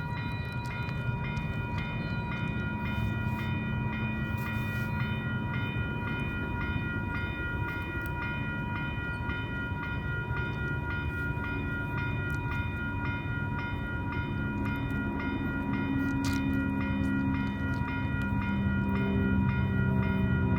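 Electronic crossing bell ringing steadily over the low diesel rumble of a freight train led by a GE C40-8 locomotive, which grows louder near the end as the train draws closer.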